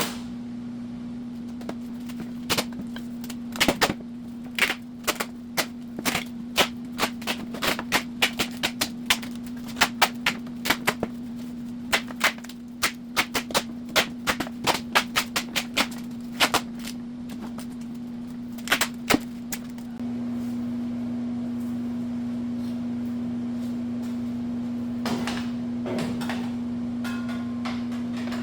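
A long run of sharp, irregular clicks and knocks, several a second at times, over a steady low hum; the hum steps up in level about two-thirds of the way through, and a few last clicks follow.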